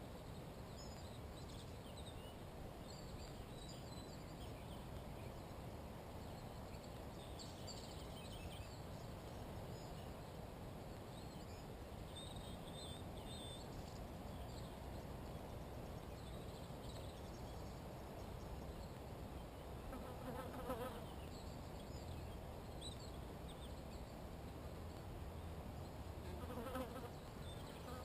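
Insects buzzing, with a louder buzz passing close about two-thirds of the way through and again near the end, over faint scattered high bird chirps in the background.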